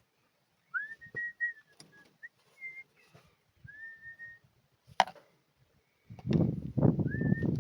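Someone whistling a tune in short, held notes, several sliding up at the start, with a sharp click about five seconds in. About six seconds in, a louder, irregularly pulsing low sound starts under the whistling.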